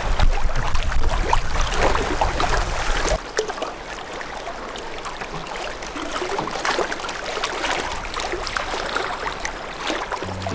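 Water splashing and trickling as a canoe is paddled, the paddle dripping between strokes. A low rumble in the first three seconds stops abruptly.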